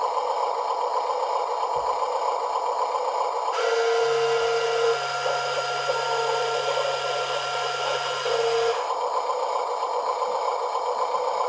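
Huina 1582 RC dump truck's electric tipper motor and gearbox whirring steadily as the bed cycles up and down. A fuller, noisier mechanical sound joins in for about five seconds in the middle, then drops away.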